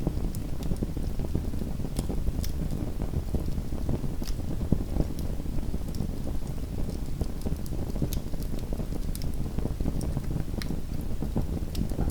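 Small wood fire burning in a fireplace: a steady low rumble of flames with frequent sharp, irregular crackles and pops of the burning wood.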